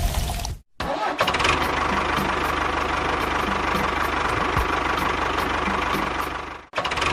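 Mini tractor's engine running steadily with a fast low pulse. The sound drops out abruptly for a moment about two-thirds of a second in and again near the end.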